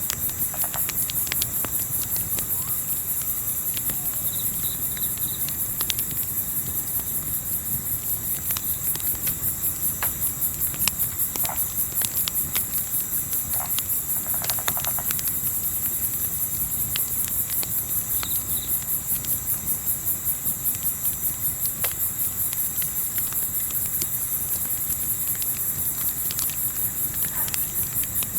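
Crickets chirping in a fast, even, pulsing chorus, with scattered sharp crackles from a campfire and a low wind rumble underneath.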